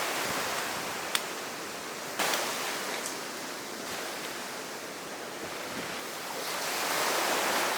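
Sea surf washing onto the beach, a steady rushing that swells and eases, with one sharp click about a second in.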